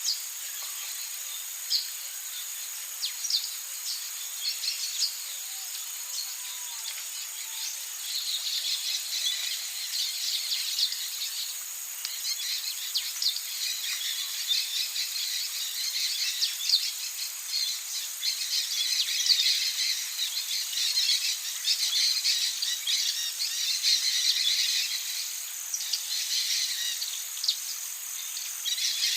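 Amazon rainforest ambience: a steady high-pitched insect drone with many quick bird chirps and twitters over it, growing busier about eight seconds in.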